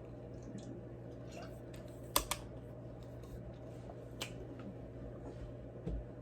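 A few sharp clicks and a soft knock from a drink being handled, over a steady low hum: a pair of clicks about two seconds in, another about two seconds later, and a dull knock near the end.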